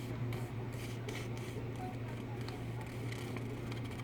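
Irregular soft rustling and rubbing of cardboard packaging and paper being handled, over a steady low hum.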